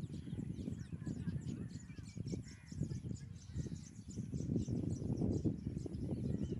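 Baya weavers chattering in their colony: many short, high chirps in quick succession, over a steady low rumble.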